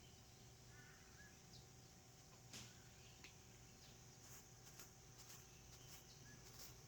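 Near silence: faint outdoor ambience with a steady low hum, a few faint bird chirps and scattered light ticks.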